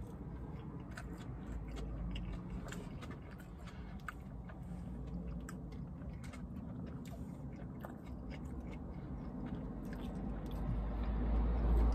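A person chewing a mouthful of vegan turkey sandwich with mouth closed: many small, irregular wet clicks of chewing. A low rumble grows louder near the end.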